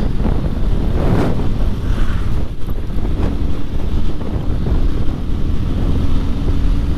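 Wind buffeting the microphone of a moving motorcycle, a loud low rumble, with the bike's engine running underneath; a faint steady engine tone comes in about three seconds in.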